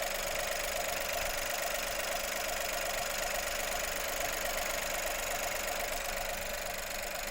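Seat Arona's 1.0 TSI three-cylinder petrol engine idling warm, running steadily with a fast rattle and a squeak. The owner asks whether a valve or a bearing is the cause.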